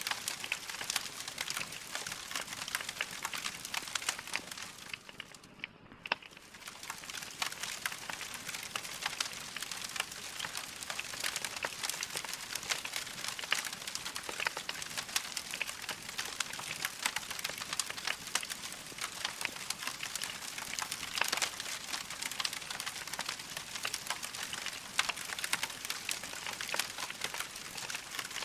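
Wood fire crackling in a fireplace, a steady stream of small sharp pops and snaps over a soft hiss. It dips briefly quieter about six seconds in.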